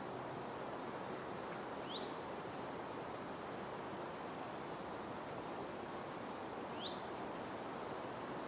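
A songbird singing two phrases. Each is a short rising note, then a high note stepping down into a rapid, even trill. Under it runs a steady background hiss of the forest.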